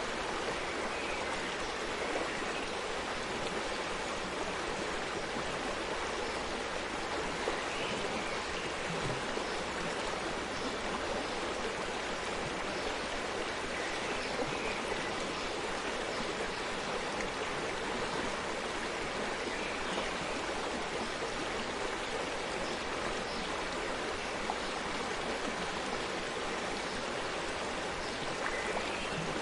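A forest stream running over stones, a steady rush of flowing water with small splashes and gurgles here and there.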